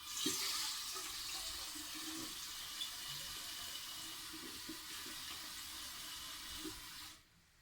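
Water running steadily from a kitchen tap, turned off about seven seconds in.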